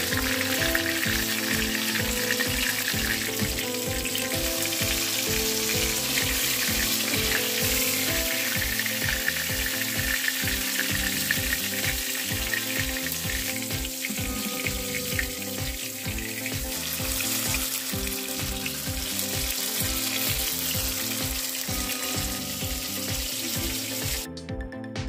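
Batter-coated mushroom pieces frying in hot oil in a kadai, a steady sizzle that cuts off suddenly near the end. Background music with a steady beat plays underneath.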